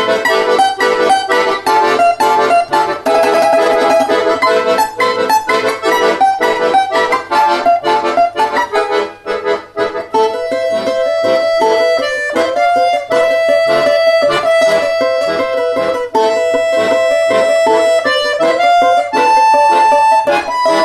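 Accordion music: a busy passage of quick repeated chords, then about halfway a slower melody of long held notes.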